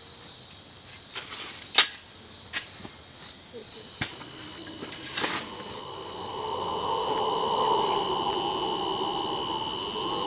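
Insects chirring with steady high tones. A few sharp clicks come through in the first half. From about six seconds a steady lower hum builds in and stays.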